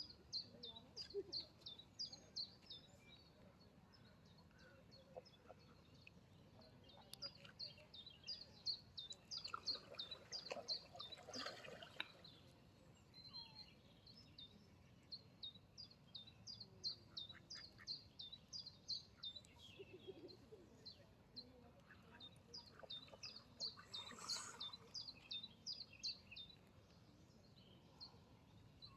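Small birds chirping faintly in quick repeated runs of short, high notes, with a couple of brief louder calls mixed in about a third of the way through and again near the end.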